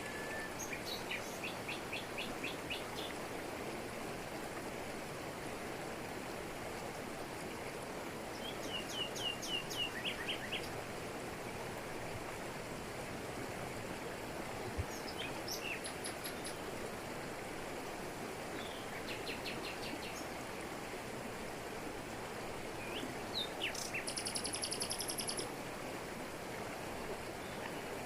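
Steady rush of a waterfall falling over rocks, with forest birds calling over it in short runs of rapid repeated high notes, about five times.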